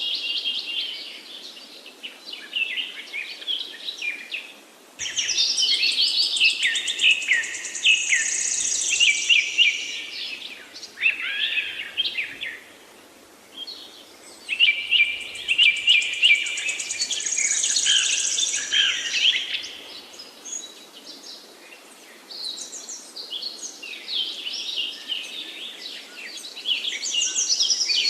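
A bird singing in bouts several seconds long of quick, varied high chirps, whistles and rapid ticks, with short pauses between the bouts.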